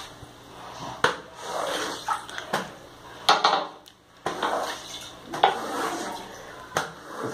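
Household objects being handled and moved: about five sharp knocks or clatters, each followed by a second or so of scraping, rushing noise.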